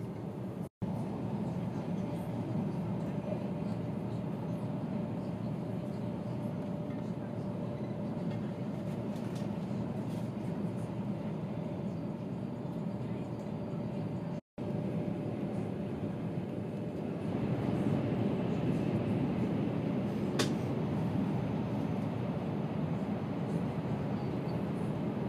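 Steady rumble inside a moving passenger train, with a constant hum through it. The sound cuts out abruptly twice for a moment.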